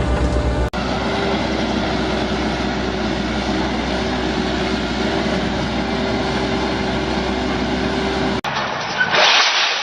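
A heavy vehicle engine runs with a steady drone and a held tone. The sound breaks off abruptly twice, about a second in and again near the end, where a noisier sound takes over.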